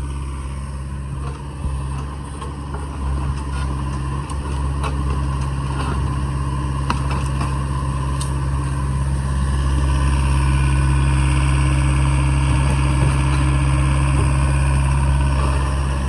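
Diesel engine of a heavy digging machine running steadily, getting louder about ten seconds in as it works harder. A few faint knocks sound over it.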